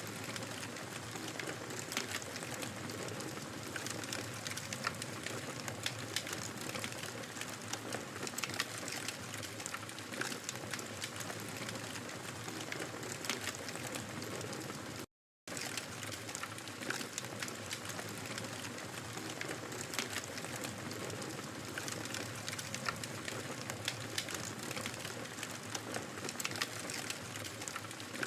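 Wood fire burning in a fireplace: a steady hiss with many small, irregular crackles and pops. About halfway through, the sound drops out completely for a fraction of a second.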